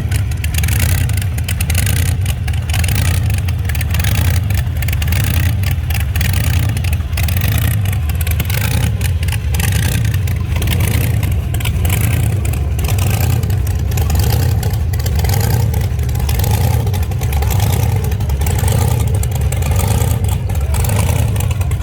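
Loud engines of rat rods rumbling and revving as they drive past in a steady stream.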